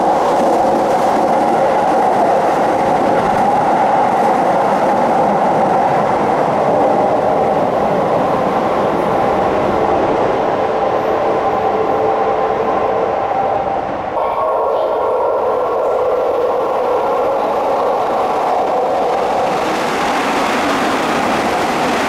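Electric commuter trains running past at high speed, a loud steady rush of wheels on rails with a humming traction-motor tone. The sound changes abruptly about fourteen seconds in.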